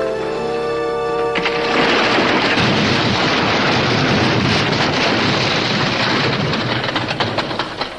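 Music with held notes breaks off about a second and a half in as a rock fall starts in a mine tunnel: a long, loud rumble of tumbling rock that thins near the end into scattered small stones clattering down.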